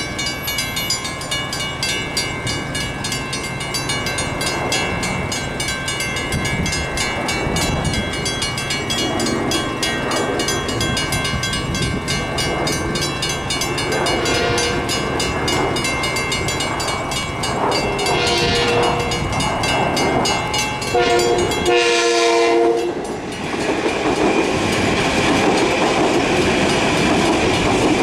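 Grade-crossing bells ringing as a Long Island Rail Road train approaches and sounds its horn in the crossing pattern: two long blasts, a short one and a final long blast. The train then passes over the crossing with steady wheel rumble and clickety-clack on the rails.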